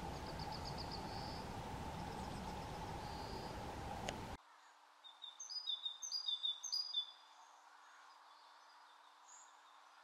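Steady outdoor background noise with faint, high bird trills, cut off suddenly about four seconds in. A quieter stretch follows, with a quick run of short, high bird chirps lasting about two seconds.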